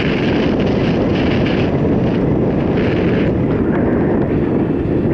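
Wind buffeting the microphone of a rider's camera on a mountain bike ride, a steady loud rumble.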